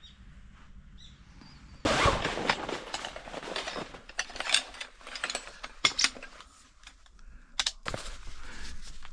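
Tent gear being handled during pitching: a sudden clatter about two seconds in, then irregular rustling and rattling with several sharp clicks and snaps.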